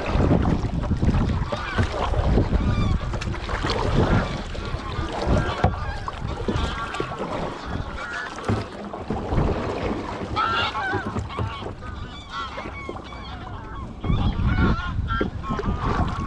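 Geese honking repeatedly, many short calls overlapping, over wind rumbling on the microphone.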